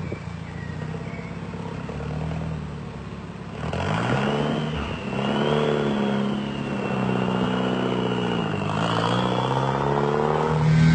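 Vuhl 05 supercar's turbocharged engine running steadily. About four seconds in it gets louder, and the revs then rise and fall several times.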